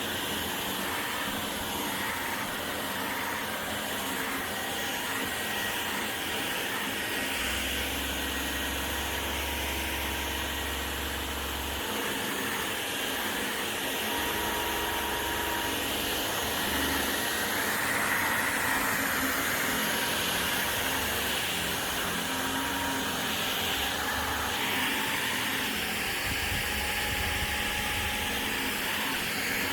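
Vacuum cleaner running steadily, with a motor whine and rushing air, growing briefly louder a little past halfway.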